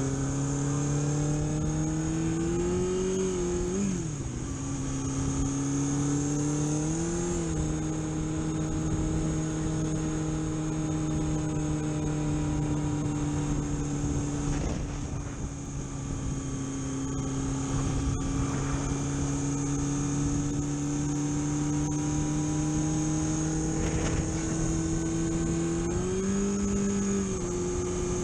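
Car engine pulling under load while driving. The revs climb over the first few seconds, drop sharply at a gear change about four seconds in, and settle to a steady cruise. Near the end they rise briefly and fall back again. A steady high-pitched whine runs underneath.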